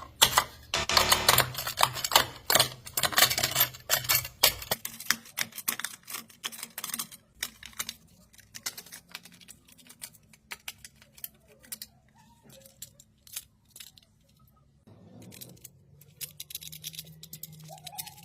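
Rapid clicking and clattering, dense for about the first seven seconds and then thinning out to scattered clicks, over a low steady hum.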